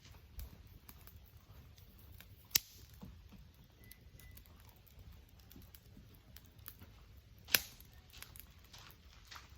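Wood fire crackling: scattered small crackles with two sharp pops, the first about two and a half seconds in and the second about seven and a half seconds in.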